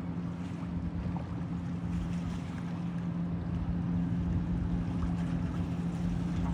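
A ship's engine running with a steady low hum.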